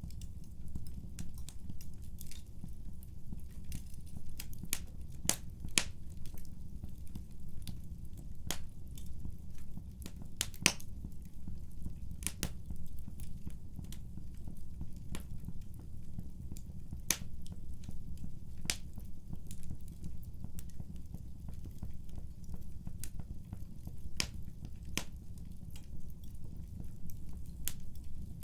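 Wood fire crackling in a fireplace: irregular sharp pops and snaps of burning logs, a few louder ones, over a steady low rumble of the flames.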